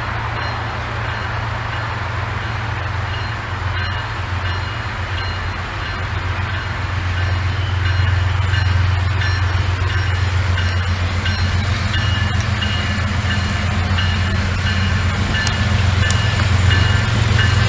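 A train's diesel locomotive rumbling steadily, growing louder about halfway through, with faint high tones coming and going over it.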